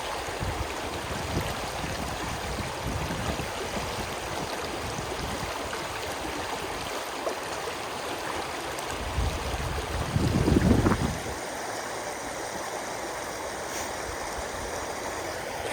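Running water of a stream rushing steadily, with a brief louder low rumble about ten seconds in.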